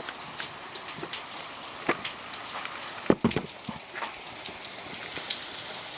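Heavy rain pattering steadily, with many small drop ticks. A few sharper knocks cut through, the loudest a quick cluster of thumps about three seconds in.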